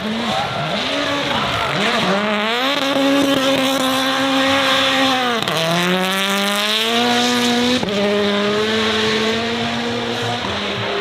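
Racing car engine revving hard. A few short blips of the throttle come first, then a long climb in pitch. The pitch dips sharply about five and a half seconds in, climbs again, breaks once more near eight seconds and then holds fairly steady.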